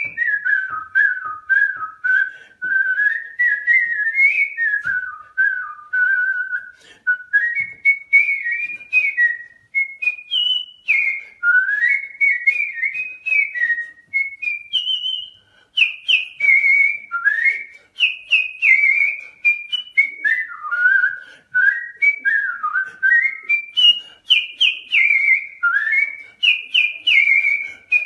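Whistling: a single clear tone moving in quick gliding notes, rising and falling like a tune, in phrases broken by short pauses.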